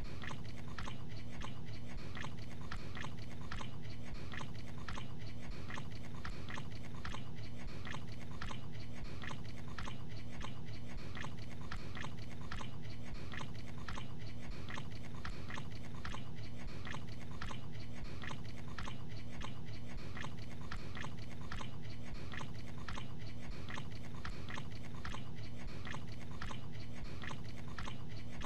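A man chewing a mouthful of capicola (gabagool) with his mouth open, wet smacking in an even rhythm of about two chews a second, over a steady low hum.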